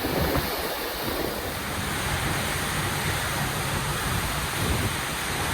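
Steady roar of Seljalandsfoss waterfall's falling water, with wind buffeting the microphone.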